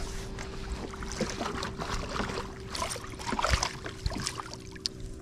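Irregular splashes and knocks on a kayak as a freshly landed lake trout is handled, over a faint steady hum.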